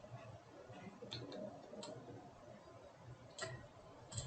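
A few faint, scattered computer mouse clicks over quiet room tone.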